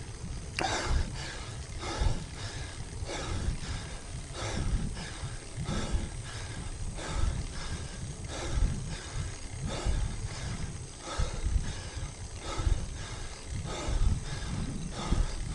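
A cyclist breathing hard in a steady rhythm, about one loud breath every second and a bit, close to the action camera's microphone, over a constant low wind rumble.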